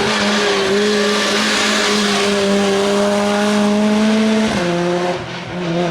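Rally car engine at high revs under load, its note held and slowly climbing. About four and a half seconds in the revs drop sharply, as at a gear change or lift-off, before the engine pulls again.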